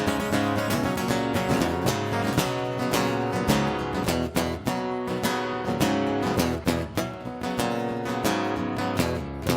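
Acoustic guitar strummed steadily in rhythm, a solo instrumental passage of a country song.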